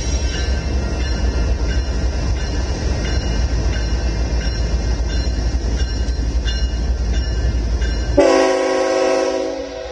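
Diesel freight train rumbling steadily as it passes. Near the end a locomotive air horn sounds a chord of several notes for about a second and a half, and the rumble drops away.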